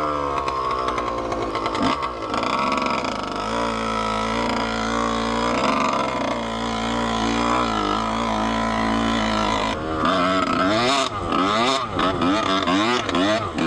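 Dirt bike engine running with its exhaust pipe missing, giving a loud, raw sound. The revs fall at first, hold steady for several seconds, then rise and fall repeatedly near the end as the throttle is worked.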